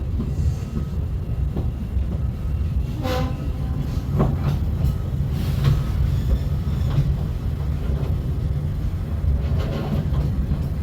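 Walt Disney World Railroad train running along the track, a steady low rumble of the rolling passenger car. A couple of brief, sharper noises come about three and four seconds in.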